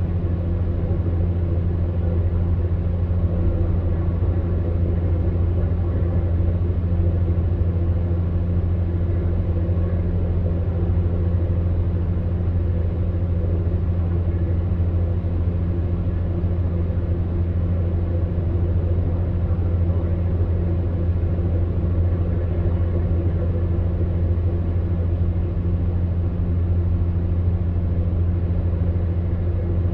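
Electric fan heater running steadily: a low motor hum under an even rush of air from the fan.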